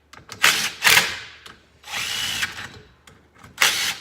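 Power drill-driver running in three short bursts, one with a steady whine, as screws are driven back into a motorcycle engine case.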